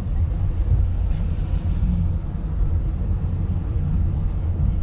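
Steady low rumble of a vehicle on the move: engine and road noise while driving.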